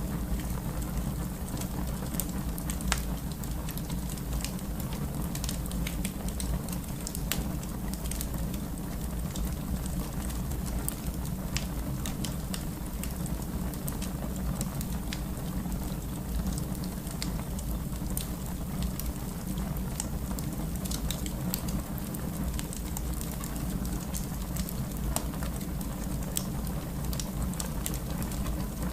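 Fire in a fireplace burning steadily, with a low rumble of flame and frequent irregular crackles and pops.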